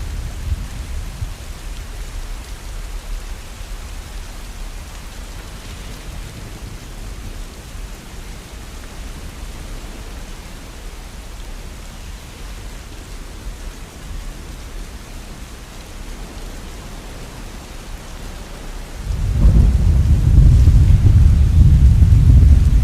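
Steady rain hissing. A low rumble of thunder dies away in the first second or so, and about 19 seconds in a loud, low roll of thunder breaks in and keeps rumbling.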